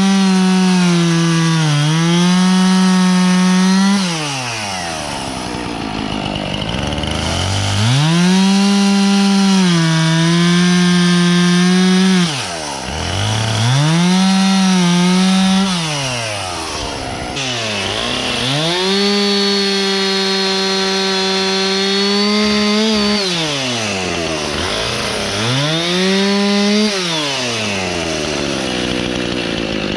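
Husqvarna professional two-stroke chainsaw revving to full throttle five times, each burst held a few seconds with the pitch sagging slightly as the chain bites, and dropping back between them: cutting dry oak logs into firewood rounds.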